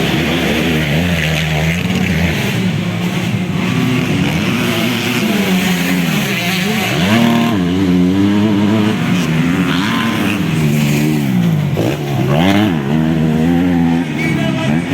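250cc motocross bikes racing, their engines revving up and down through the gears. The pitch drops sharply and climbs again about seven and again about twelve seconds in.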